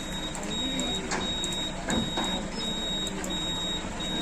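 Truck reversing alarm: a high electronic tone that repeats about once a second with short gaps between, over a few sharp knocks and faint background voices.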